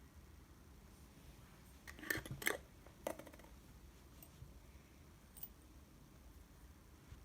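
A quick cluster of light clicks and rustles from small objects being handled, about two to three seconds in, then a couple of faint ticks, over a low steady hum.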